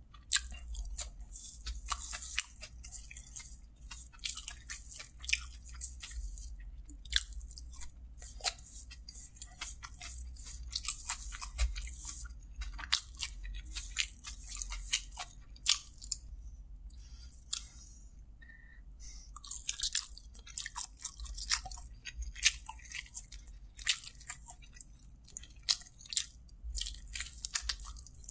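Close-miked chewing and mouth sounds of a person eating kottu roti by hand: irregular wet clicks and crunches, with a quieter stretch about two thirds of the way through.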